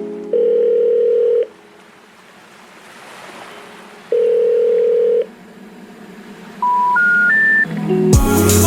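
Two long, steady electronic beeps about four seconds apart, then three short beeps rising in pitch, with music starting near the end.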